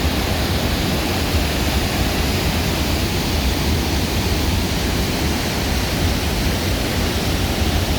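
Isaac Falls, a large waterfall where the water from Isaac Lake pours down, rushing with a loud, steady, even noise.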